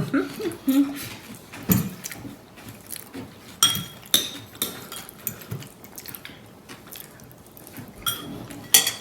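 Spoons and forks clinking against bowls and plates while people eat, a scatter of sharp clinks with short ringing, the loudest near the end. A short vocal sound comes in the first second.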